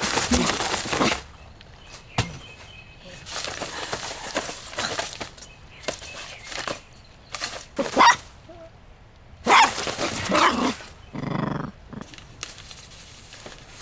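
A dog barking in short bursts, several times.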